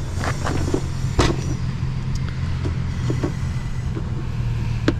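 Vehicle engine idling steadily, with a few sharp knocks and clanks, the loudest about a second in and another near the end.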